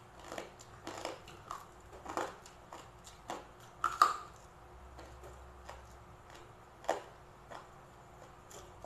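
Close-up chewing and crunching of crispy deep-fried pork belly eaten by hand, with irregular crisp snaps, the loudest about four seconds in as a fresh piece goes into the mouth.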